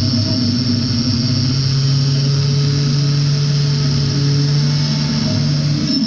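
Power saw running steadily while it cuts aluminum stock, fed by its own weight with no pressure on it. The motor's steady hum shifts pitch near the end.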